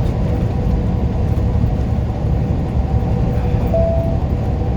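Truck cab noise at highway speed: a steady low rumble of engine and road with a constant hum. A short, steady beep sounds a little under four seconds in.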